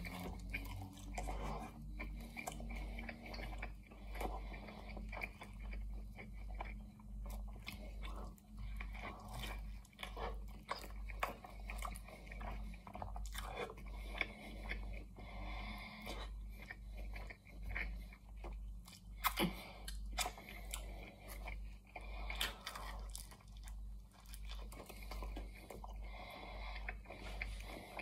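Close-miked chewing and biting of a roast chicken pie: flaky pastry crunching and crackling in irregular short clicks, with one sharper smack about two-thirds of the way through. A low steady hum runs underneath.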